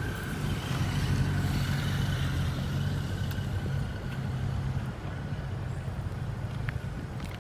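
Steady low engine hum with a faint high whine above it. It swells about a second in and eases off about five seconds in.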